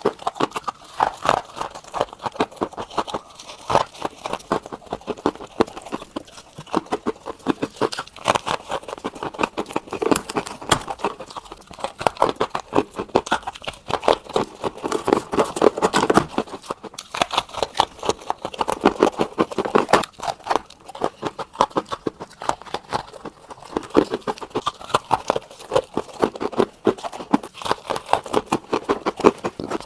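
Soft refrigerator freezer frost ice crunching and crackling as it is bitten and chewed, in a dense run of rapid crunches.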